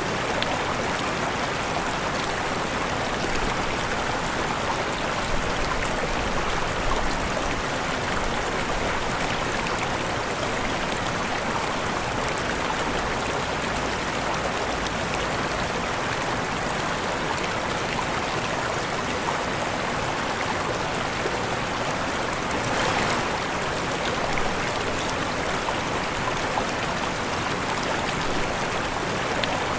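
Waterfall: falling water running with a steady, even rush, swelling slightly for a moment about three-quarters of the way through.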